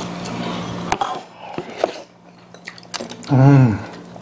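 People eating at the table: close chewing and mouth sounds with small clicks of chopsticks and bowls. A little after three seconds one eater gives a short, loud hummed "mm" whose pitch rises and falls.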